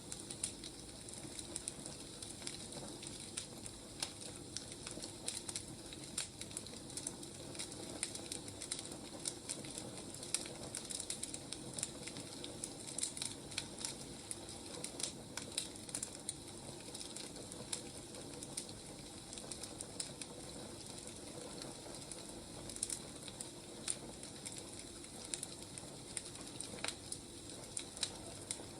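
Firewood burning, crackling with irregular sharp pops and snaps over a steady soft hiss.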